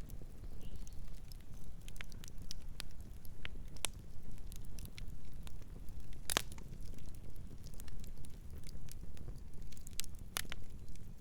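Campfire burning, with irregular crackles and snaps over a steady low rumble of the flames; one louder pop about six seconds in and another near the end.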